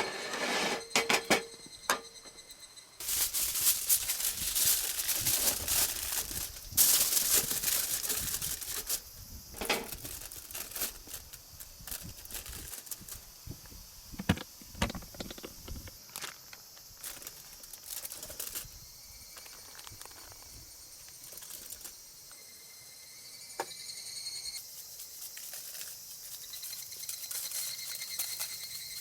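Crinkling, rustling handling noise with scattered clicks and knocks, heaviest in the first ten seconds and sparser after. A steady high-pitched buzz comes in later and grows near the end.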